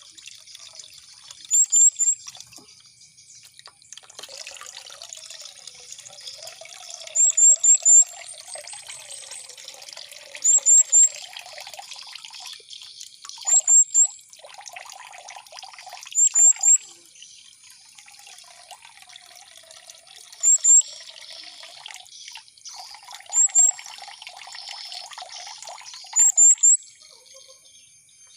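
Water trickling steadily, with a mantenan bird giving quick, very high chirps in clusters of two to four about every three seconds; the chirps are the loudest sound.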